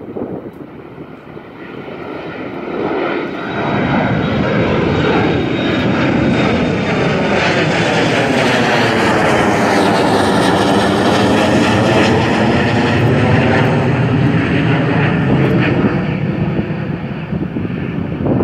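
Jet airliner departing at takeoff thrust. Its engine noise swells over the first few seconds and stays loud as it passes, with a sweeping, phasing tone.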